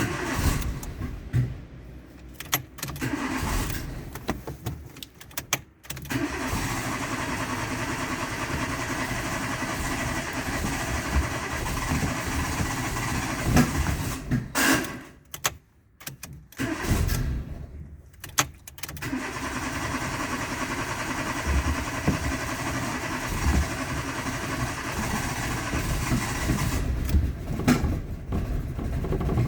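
Renault Twingo 1.2 16-valve four-cylinder petrol engine starting and then running steadily at a high idle, with a break near the middle. The high revving is the fault traced to a faulty throttle body.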